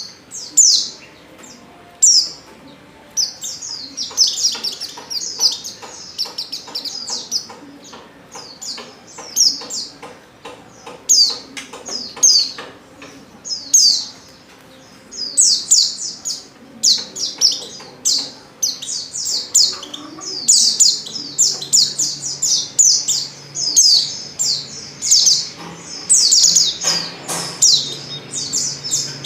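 A pleci (white-eye) chirping in quick series of short, high-pitched notes that grow denser and more continuous in the second half, presented as a female in breeding condition calling for a male. A faint low hum comes in about two-thirds of the way through.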